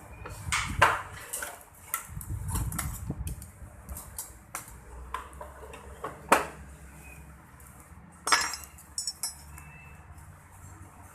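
Spoon clinking against a noodle bowl while the broth is tasted: a few sharp clinks spread apart, the loudest about six seconds in.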